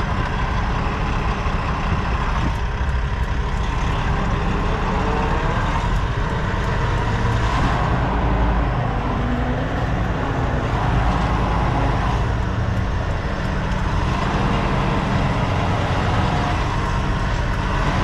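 Semi-truck diesel engine running steadily at low speed while the tractor-trailer reverses into a loading dock.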